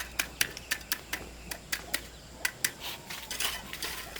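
A rapid, irregular run of light, sharp clicks and taps, about three or four a second.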